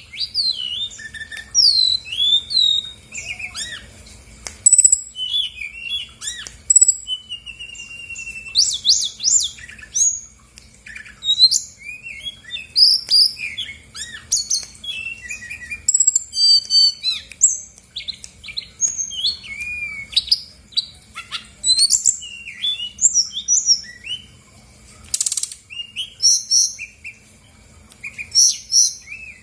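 Brown-chested jungle flycatcher singing a fast, varied song of short whistled chirps and sweeping notes, broken by a few brief buzzy trills.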